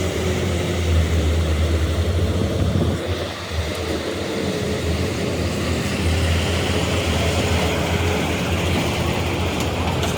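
An engine running steadily, a low drone with a faint steady hum above it.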